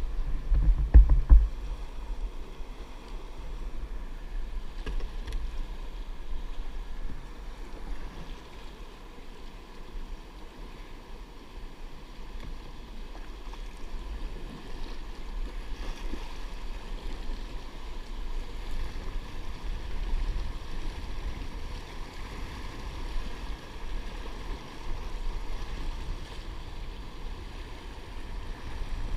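Wind rumbling on the microphone over open water, with water washing around a kayak. It is louder in the first second or so.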